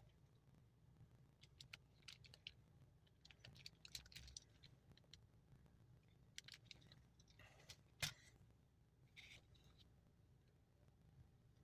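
Near silence with faint scattered clicks and light scratching handling noises, and one sharper click about eight seconds in.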